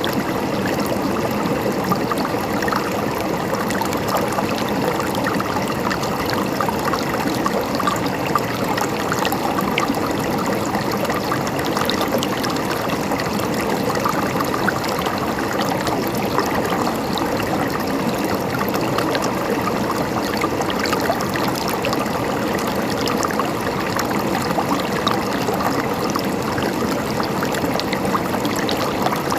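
Flowing water gurgling and trickling steadily, with no pauses or changes.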